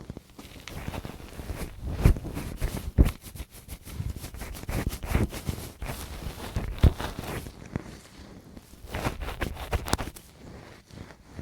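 Close-up ear-cleaning ASMR sounds: a tool scratching and rubbing against a microphone's ear in irregular strokes with sharp clicks, several of them louder than the rest.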